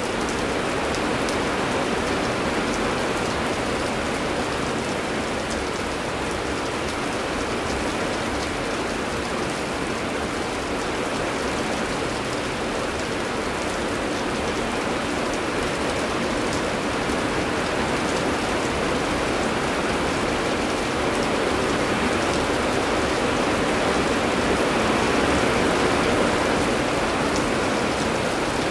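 Heavy, steady rain falling, with a dense hiss of drops pattering on surfaces; it grows a little louder about three-quarters of the way through.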